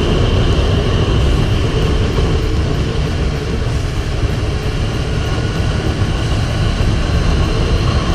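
Motorcycle being ridden, its engine running steadily under heavy wind and road noise.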